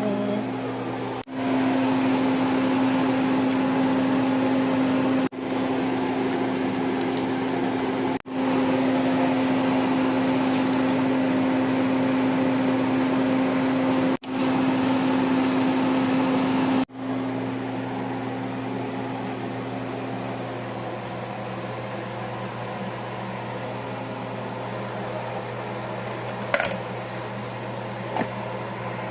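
Steady mechanical hum of a fan or kitchen appliance motor, with a low held tone, broken by several abrupt cuts. It drops somewhat in level for the last third, with a single sharp click a few seconds before the end.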